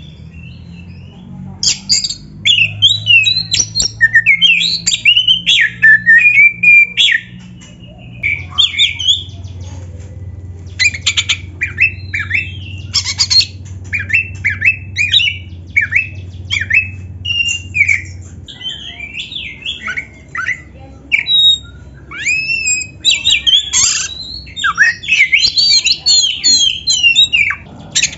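Oriental magpie-robin (kacer) singing: rapid runs of varied whistles, sweeps and chattering notes in bursts with brief pauses, over a faint low steady hum.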